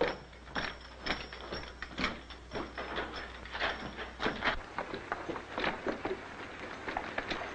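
A run of irregular sharp knocks and clatter, a few a second, over a low soundtrack hum that stops a little past halfway.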